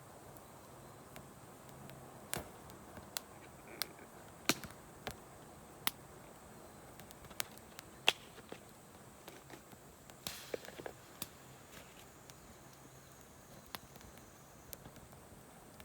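Wood campfire crackling: irregular sharp pops and snaps over a faint, steady hiss, with one louder pop about eight seconds in.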